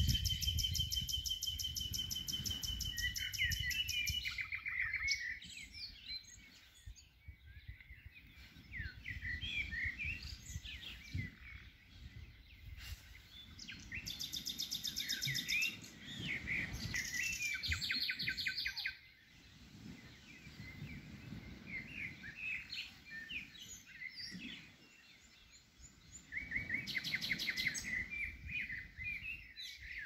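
Songbirds chirping and calling in many short notes, with fast buzzy trills that come and go several times, over a low steady rush.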